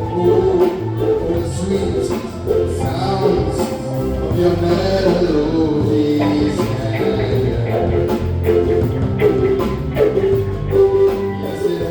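Live band playing an instrumental rock passage with a steady beat.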